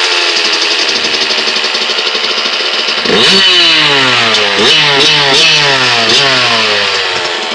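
Suzuki RM80's two-stroke single running after a cold start, its throttle blipped four times in the second half, each rev rising sharply and falling back, before it settles down near the end.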